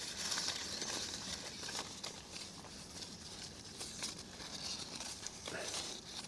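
Faint rustling and crinkling of paper slips being mixed in a sack, with small scattered clicks as one slip is drawn out.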